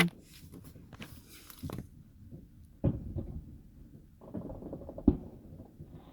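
Two dull firework bangs about two seconds apart, muffled as heard from inside a closed car.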